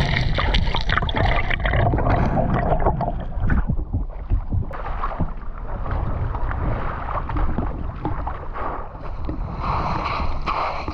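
Water splashing and churning close to the microphone, with a low rumble and scattered small knocks throughout.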